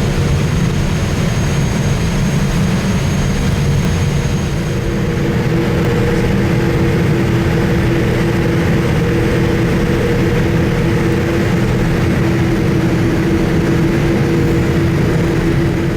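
Steady jet engine and airflow noise heard inside the cabin of a Boeing 787-8 with General Electric GEnx-1B engines. A deep, even noise with a faint steady hum that grows a little clearer about five seconds in.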